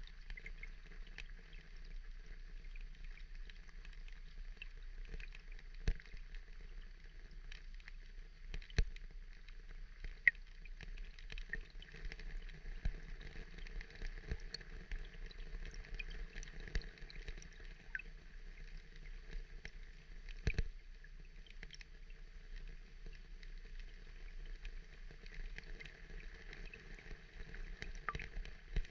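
Steady water ambience: a soft, even wash of noise dotted with scattered small clicks and drips, a handful of them sharper and louder.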